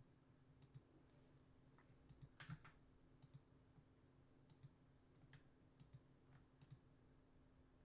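Faint, scattered clicking at a computer keyboard, over near-silent room tone with a faint steady hum.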